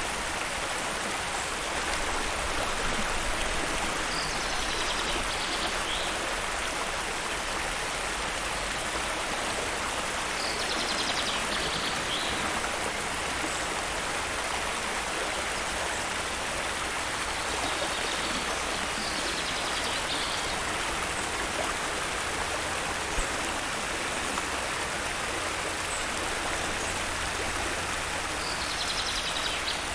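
Steady rushing of a flowing stream, with a short, high bird call coming through four times, several seconds apart.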